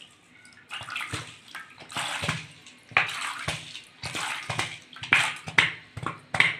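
Water being poured into a plastic container of green gram (mung beans) to soak them, splashing in uneven surges about once a second.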